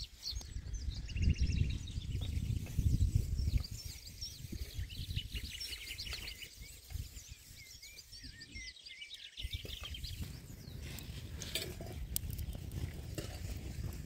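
Small birds chirping and trilling at dusk, many short rising and falling calls, over a low rumble on the microphone that is loudest in the first few seconds. A few sharp clicks come near the end.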